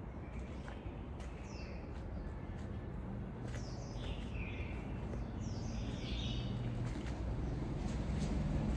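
Small birds chirping, a handful of short, high calls that fall in pitch, mostly in the middle stretch, over a steady low rumble.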